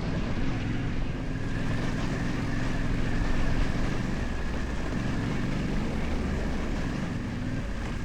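Yamaha Ténéré 700's parallel-twin engine running steadily at low road speed, with wind noise on the microphone.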